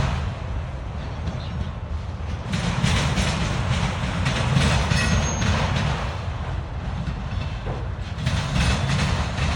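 Freight train cars rolling past slowly, a steady low rumble of steel wheels on the rails.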